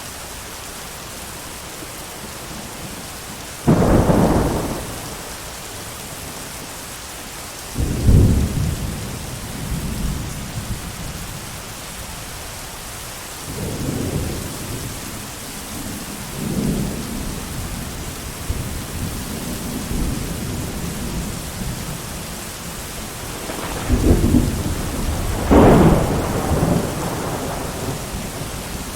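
Steady heavy rain with repeated thunder: a sudden loud clap about four seconds in, another about eight seconds in, softer rumbles in the middle, and two close, loud cracks near the end.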